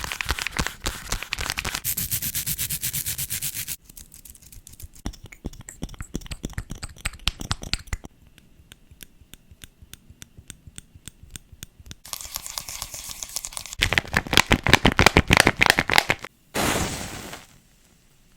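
A fast run of ASMR triggers: long fingernails tapping and scratching on different objects, the sound changing every few seconds between quick runs of crisp taps and softer ticking. A short rubbing hiss comes near the end.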